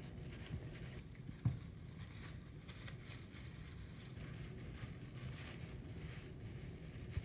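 Rolling pin rolling out dough on a countertop: a low, uneven rumble of rolling strokes, with a sharp knock about one and a half seconds in.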